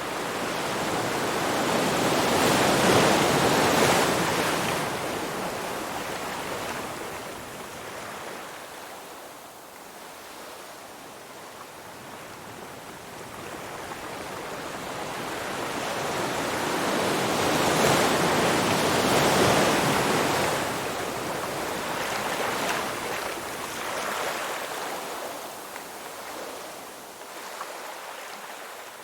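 Ocean surf washing in and out: two slow swells of rushing water noise, one building to a peak a few seconds in and another just past halfway, each ebbing away between.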